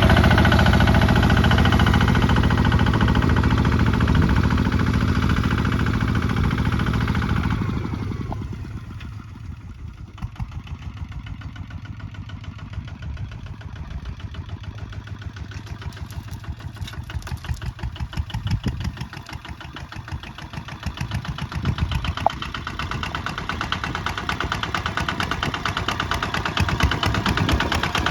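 Kubota ZT155 single-cylinder diesel engine running fast and loud, then dropping to a much quieter low speed about eight seconds in, its separate firing beats audible, and growing louder again toward the end.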